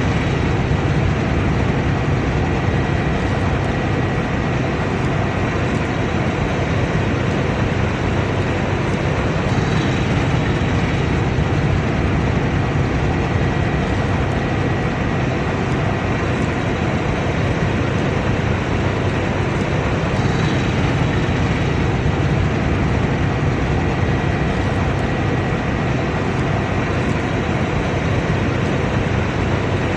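Combine harvester running steadily while harvesting: an even mechanical drone with a faint constant whine over it.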